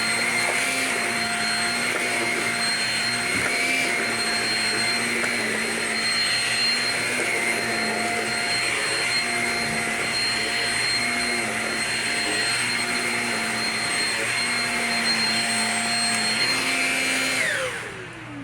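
Shark Rocket self-cleaning brush-roll vacuum running on a carpet rug: a steady motor whine with a slight wobble in its lower tone. Near the end it is switched off and the whine falls away as the motor spins down.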